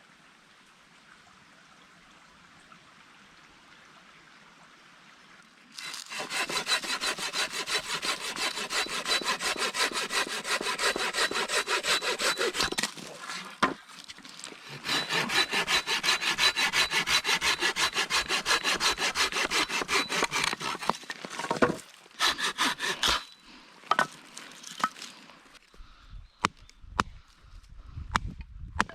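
A hand saw cutting through wood in quick, even back-and-forth strokes, in two long runs with a short pause between them, after a quiet start. Near the end, a few separate knocks.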